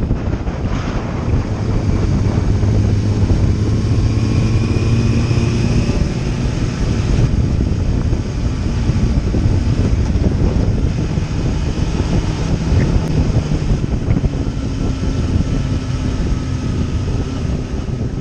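Motorcycle engine running at a steady cruise, mixed with heavy wind rush on the microphone while riding.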